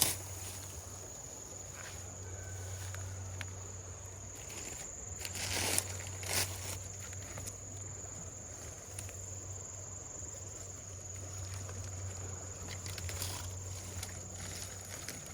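Steady high-pitched insect drone outdoors, with a few short rustles or crunches, the loudest about six seconds in.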